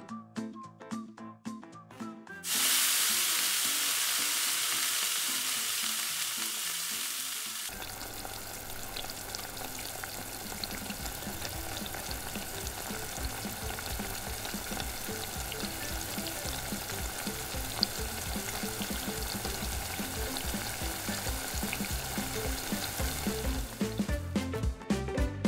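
Fish frying in hot oil. A loud hiss starts a few seconds in, then gives way to steady sizzling and crackling.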